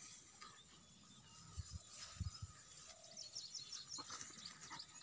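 Faint open-air ambience with scattered high bird chirps, mostly in the second half, and a few soft low thumps a couple of seconds in.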